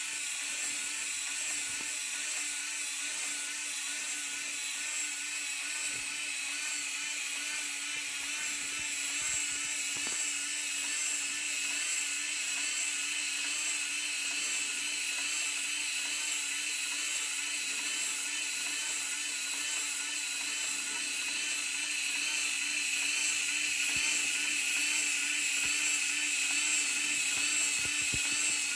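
Small electric motor and gearing driving the working engine room of a Hachette Titanic model, running steadily with a high-pitched whine that gets a little louder near the end.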